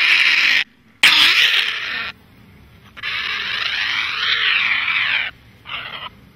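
Insects buzzing in loud, steady spells that start and stop abruptly. The longest spell, in the middle, wavers up and down in pitch.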